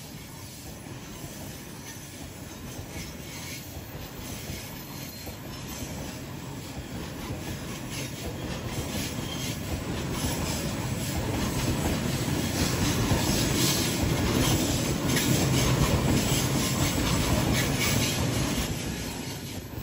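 Coal train's container wagons rolling past on the rails, their wheels rumbling and clattering. The noise builds to its loudest past the middle and eases off near the end.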